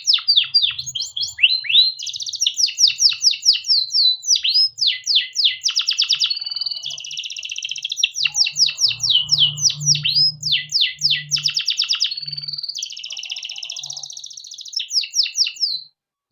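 Male canary singing a long, unbroken song of quick downward-sweeping notes and buzzy rolled trills. The song stops near the end.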